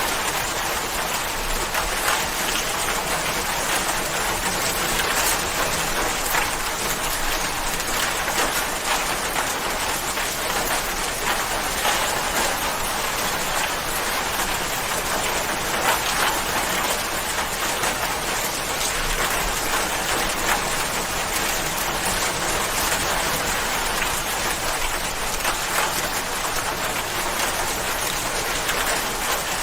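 Steady rain falling, an even hiss of many drops with small drop ticks scattered through it.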